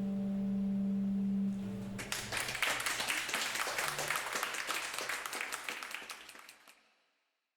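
A final held acoustic guitar chord rings out. About two seconds in, dense clapping of applause starts, then fades away near the end.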